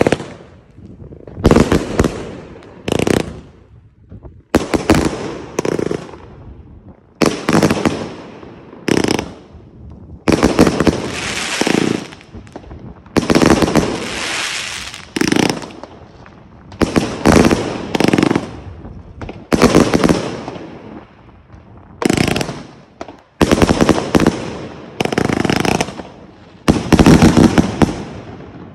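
Consumer fireworks cake (multi-shot battery) firing a long series of loud shots, about one to two a second with short pauses, each sharp report trailing off over about a second.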